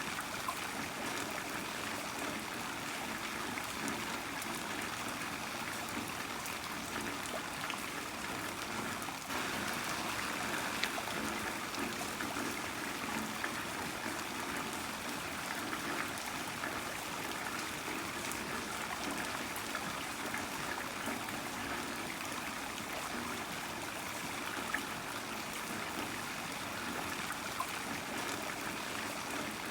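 Heavy rain falling steadily: an even rushing hiss with scattered drop ticks, growing slightly louder about nine seconds in.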